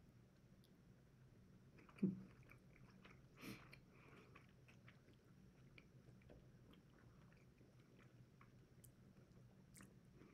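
Faint chewing of a mouthful of burrito bowl food, with a short knock about two seconds in, a softer one about a second later, and a few small clicks.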